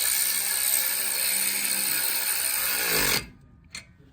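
Power tool running steadily while driving on the nuts of the rear sway bar mounts, then released a little past three seconds in, its motor winding down in pitch, followed by a faint click.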